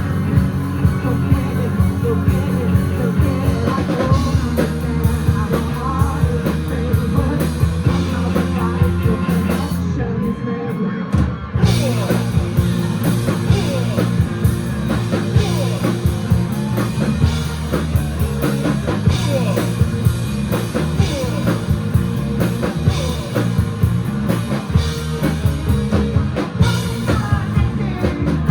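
Live rock band playing a 1990s alternative rock cover: electric guitars, bass and drum kit with singing. The drums and bass drop out briefly about ten seconds in before the full band comes back in.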